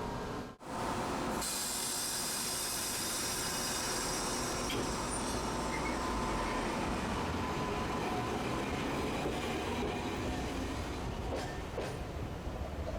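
Tosaden streetcar running on its rails: a steady rumble with a strong high hiss for the first several seconds, which then eases. The sound drops out briefly just after the start.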